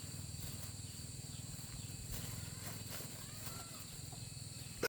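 Faint outdoor background: a steady low hum, with a few faint animal chirps around three seconds in.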